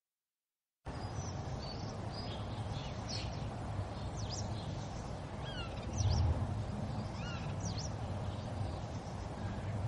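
Silence for about the first second, then a steady low rumble of background ambience with small birds chirping now and then, and a short low bump about six seconds in.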